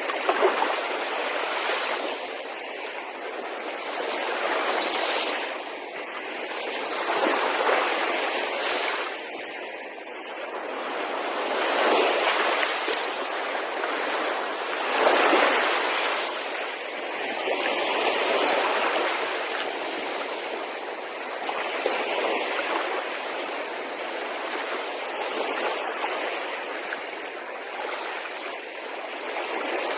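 Red Sea waves washing in, a continuous wash of water that swells and falls every few seconds.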